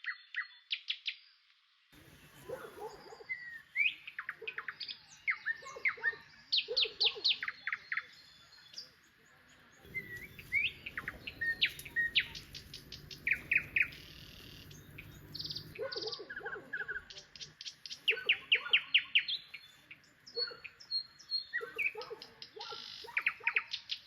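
Birds chirping and calling, with many short notes and quick runs of chirps, starting about two seconds in.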